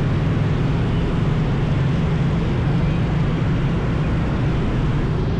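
Steady, loud road noise from a motorbike riding along a busy highway: engine and traffic noise mixed together, with no distinct events.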